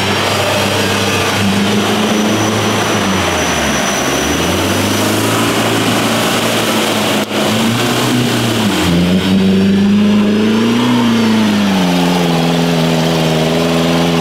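Off-road 4x4's engine revving under load, its pitch rising and falling, with a short break about seven seconds in.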